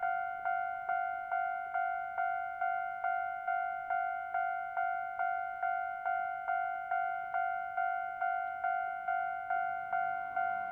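Japanese railway level-crossing warning bell ringing steadily, a single electronic bell-like ding repeated a little over twice a second, warning that a train is due.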